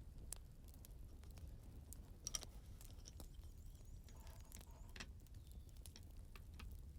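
Wood fire burning in a fireplace, faintly crackling with scattered small pops over a low rumble; the sharpest pop comes about two and a half seconds in.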